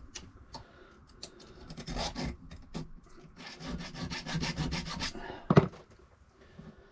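Hand file rasping on a metal key blank in short strokes, taking a fraction more off one lever step of a safe key, with a sharp knock about five and a half seconds in.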